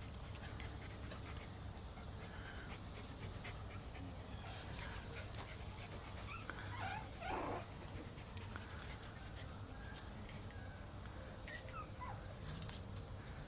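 Cairn terrier puppies giving a few short, faint whimpers and squeaks, clustered around the middle and again near the end.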